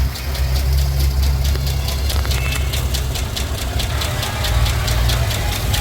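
GM 4.8L V8 engine running at a steady idle, with a low rumble and a fast, even ticking over it.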